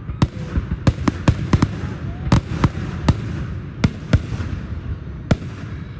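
Fireworks going off: an irregular string of about a dozen sharp bangs over a steady low rumble, thinning out and fading near the end.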